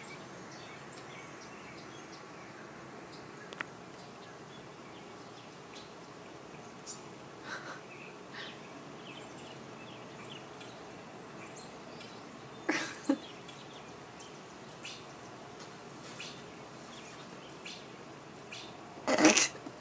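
Blackbirds giving short, scattered calls and chirps over a steady outdoor hiss, with a few louder calls in the middle and a brief loud burst near the end.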